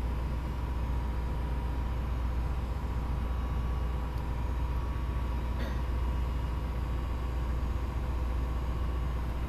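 A tugboat's diesel engine running steadily under way: a deep, even drone with a steady higher hum over it. A faint tick sounds about five and a half seconds in.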